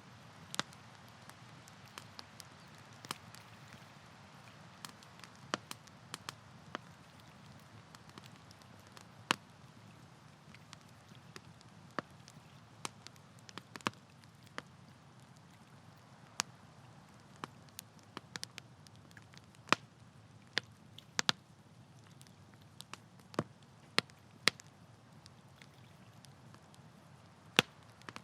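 Campfire crackling: irregular sharp pops and snaps of burning wood, several of them loud, over a soft steady low rumble of the flames.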